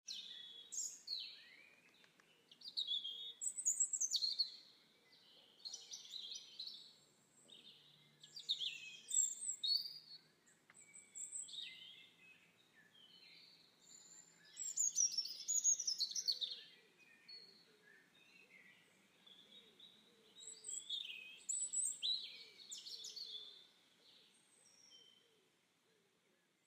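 Small birds chirping and calling, many short high chirps and trills overlapping in bursts every few seconds.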